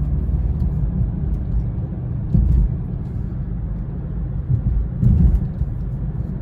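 Steady low road and engine rumble of a car heard from inside the cabin while driving, with two brief louder low swells, about two and a half and five seconds in.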